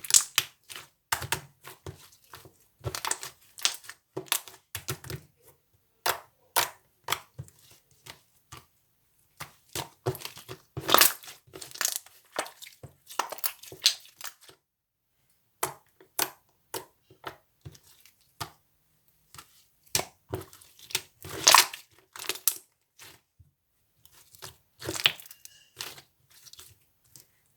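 A crackly material being mixed: clusters of sharp crackling and crunching that come in bursts, with brief pauses between them.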